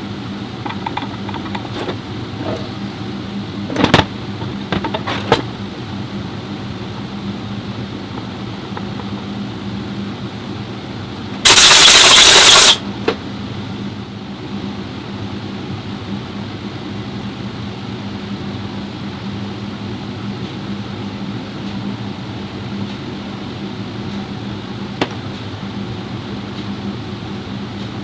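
A steady machine hum with a strong low tone. A few sharp clicks and knocks come about four seconds in, and a loud hiss lasting a little over a second comes around the middle.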